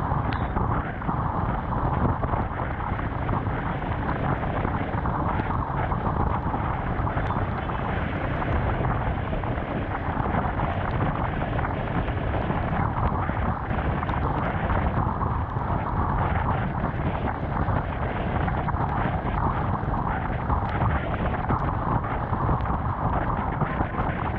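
Steady rush of wind over a GoPro mounted on a Honda CBR250R being ridden in the rain, mixed with the bike's single-cylinder engine running and tyres hissing on the wet road.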